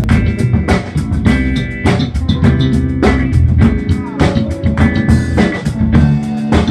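Live funk band playing an instrumental intro: electric guitar chords over a drum kit beat and bass.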